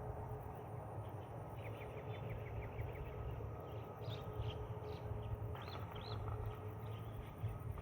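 Small birds chirping: a quick run of rapid ticking notes about two seconds in, then a few short arched whistles around four and six seconds in. Under them runs a steady low rumble with a faint constant hum.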